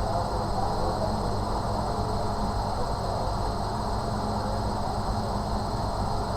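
Steady background rumble with a low hum and a faint high whine, unchanging throughout.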